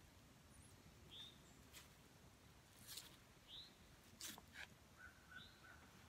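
Near silence with faint bird chirps: three short calls a couple of seconds apart and a thin held whistle near the end, plus a few faint clicks.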